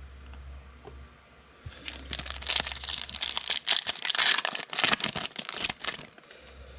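A trading card pack's wrapper being torn open and crinkled by hand, a dense run of crackling and tearing that starts about two seconds in and stops about six seconds in.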